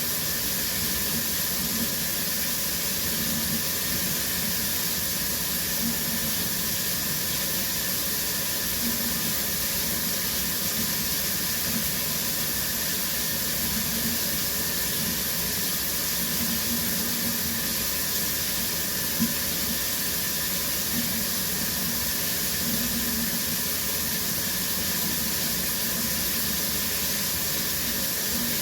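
Shower running steadily, its spray hissing evenly. A single brief click sounds about nineteen seconds in.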